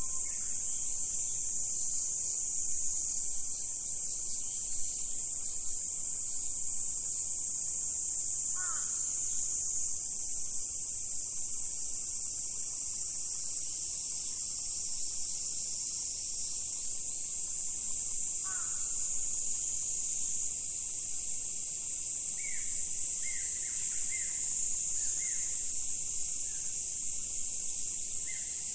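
Steady, high-pitched insect chorus. Short bird calls break in about nine seconds in and again just past halfway, then a run of brief chirps comes in the last few seconds.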